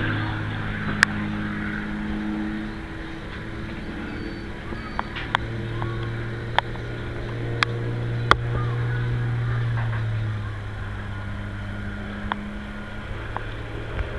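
Aerobatic biplane's piston engine and propeller droning overhead, its pitch stepping up and down as it manoeuvres. Several sharp clicks stand out over the drone.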